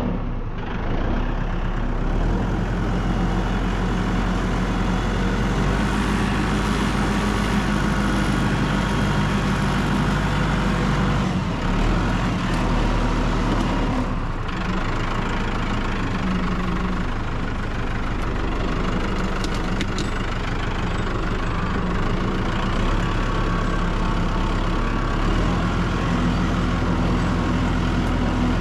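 Tractor engine running steadily, its pitch shifting a little about halfway through and again near the end.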